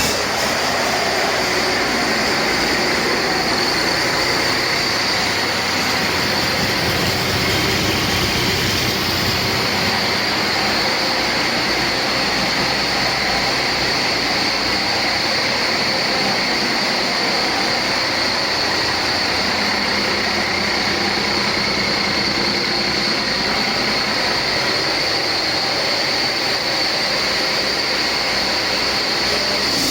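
2009 Cummins ISX inline-six diesel engine running steadily on a test run, with a steady high whine over the engine noise.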